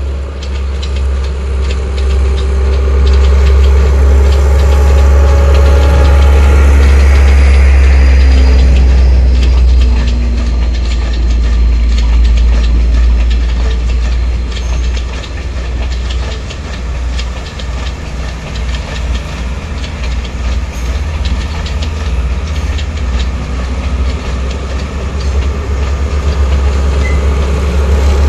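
Diesel multiple unit passenger train passing close by. The leading power car's diesel engine drones low and loud, then the carriages roll past with a steady clatter of wheels over the rail joints. The rear power car's engine grows louder again near the end.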